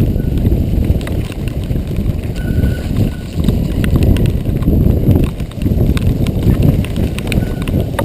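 Mountain bike rattling and clattering over a rough dirt trail, with a constant low rumble and many irregular small knocks.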